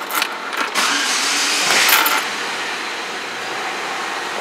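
2008 Saab 9-3's 2.0-litre turbocharged four-cylinder engine being started: a few clicks, then the engine cranks and catches about a second in and settles to a steady idle.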